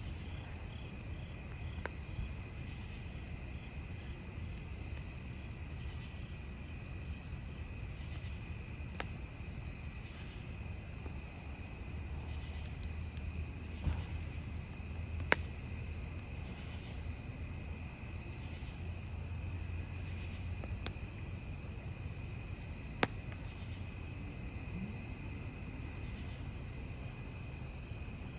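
Crickets chirping steadily over a burning wood campfire, with a higher insect chirp pulsing on and off about once a second. A few sharp pops and cracks from the burning logs stand out, the loudest about halfway through and again about three-quarters through.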